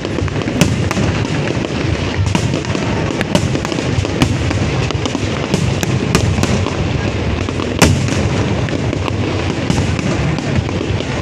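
Fireworks display going off without a break: a dense crackling rumble with many sharp bangs scattered through it, the loudest bang coming near the end.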